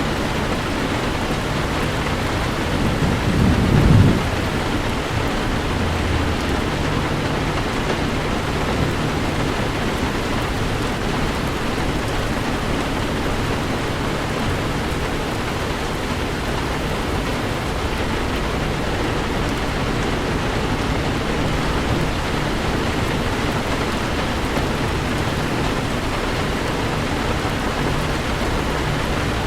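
Heavy rain falling steadily on a car, with a brief low rumble of thunder about three seconds in.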